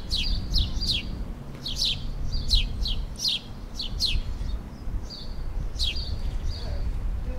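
Small birds chirping: a dozen or so quick, sharply falling chirps in ones and pairs, some followed by a short level whistle, over a steady low rumble.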